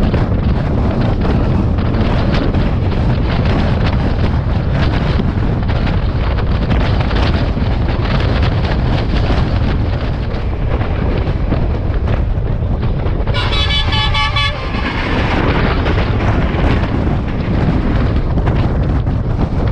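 Steady running rumble and wind noise of an S14 diesel-electric multiple unit heard from an open carriage window at speed. About 13 seconds in, a train horn sounds one blast lasting about a second and a half.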